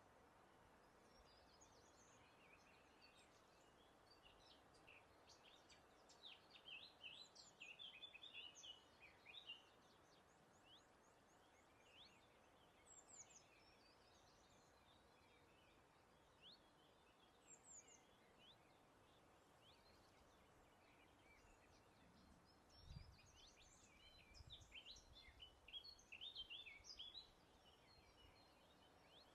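Faint songbird chirps and twitters coming in bursts, with a few single quick falling whistles between them, over a soft steady haze of breeze. A brief low rumble sounds about two-thirds of the way through.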